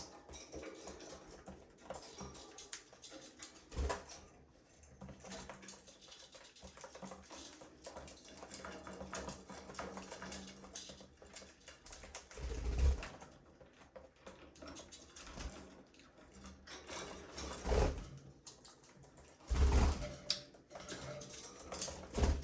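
Budgerigars chattering quietly amid a steady patter of fine clicks and taps, with a few dull thumps.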